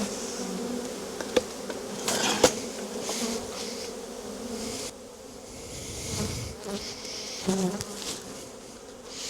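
A swarm of honey bees buzzing in a steady, dense hum: agitated bees that have been stinging and are giving off alarm pheromone. A couple of sharp knocks sound in the first few seconds.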